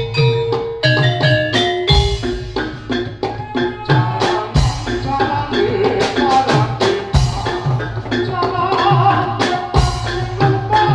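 Javanese gamelan music: bronze metallophones ring out a steady run of struck notes over regular drum beats.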